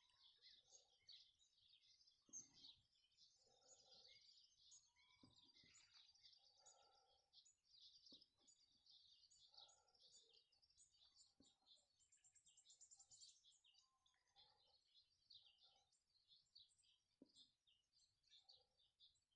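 Faint chorus of small birds chirping and twittering throughout, with lower-pitched calls now and then.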